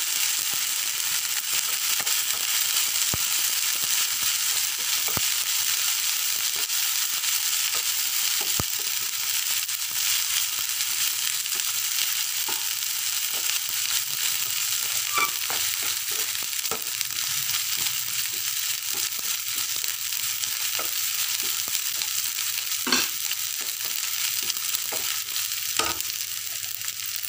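Chopped onions and ginger-garlic paste sizzling steadily in hot oil in a non-stick frying pan, stirred with a wooden spatula that scrapes and taps against the pan now and then.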